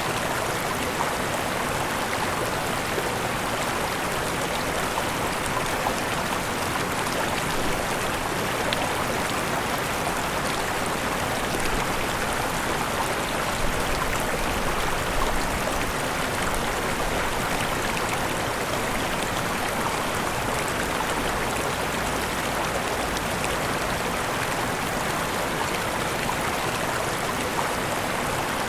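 Steady rush of falling and running water from a waterfall.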